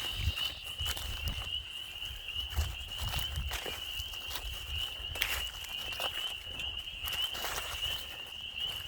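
Footsteps through field cover with low wind rumble on the microphone, over a steady, unbroken high-pitched trill that runs throughout.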